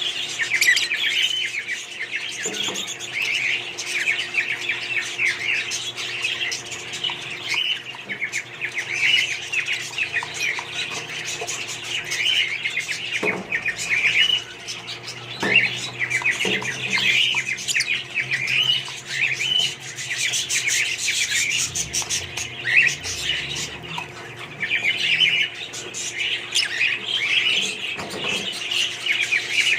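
A group of budgerigars chattering continuously, with many overlapping chirps and squawks and no pause.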